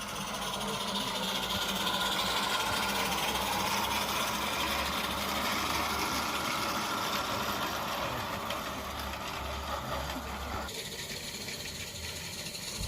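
A small live-steam garden-railway locomotive running, a steady mechanical hiss and chatter. The sound changes abruptly about eleven seconds in.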